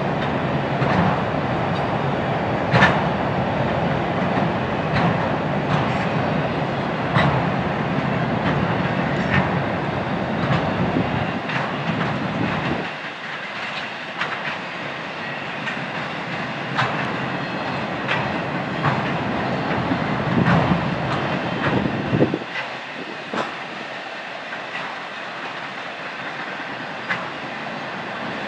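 Freight train of autorack cars rolling past, steel wheels clicking irregularly over rail joints above a steady rolling rumble. The low rumble thins out about halfway through and swells back briefly a few seconds later.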